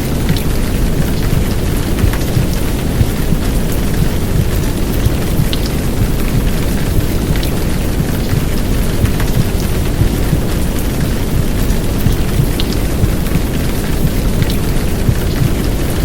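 Heavy downpour rain mixed with a deep, muffled womb-sound rumble of low white noise, an even, unbroken wash with scattered faint drop ticks on top.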